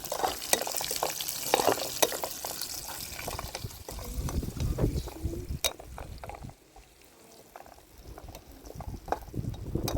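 Liquid being poured and sloshing, with a hiss and scattered clicks for the first few seconds. It goes much quieter after about six and a half seconds and picks up again near the end.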